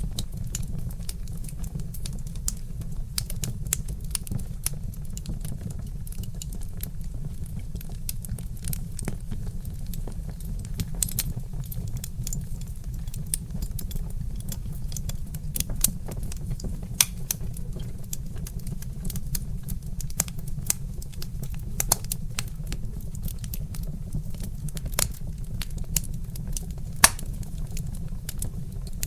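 Wood fire crackling with irregular sharp pops over a steady low rumble, with one louder pop near the end.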